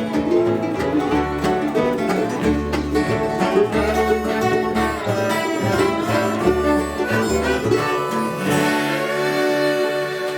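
Instrumental passage of an old-time string-band song, without singing: plucked strings over a pulsing bass line, the bass dropping out about eight seconds in.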